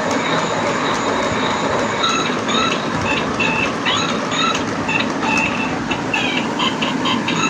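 Battery-operated toy car running with a steady rattling whir. From about two seconds in, short electronic beeping notes play over it like a little tune.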